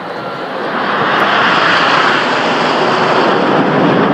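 BAE Hawk T1 jets of the Red Arrows flying past, a loud rushing jet-engine noise that swells about a second in and stays loud.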